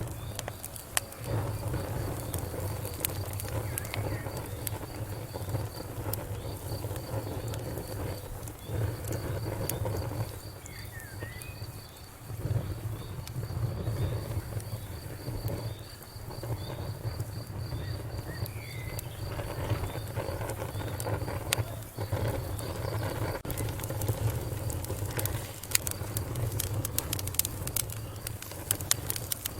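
Wood fire crackling and popping with a low steady rumble. Behind it an insect chirps in a fast, steady pulsing trill, and a couple of brief chirps come near the middle.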